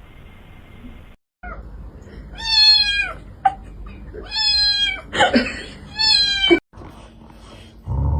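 Cat meowing three times, long high-pitched meows each under a second, with short pauses between them.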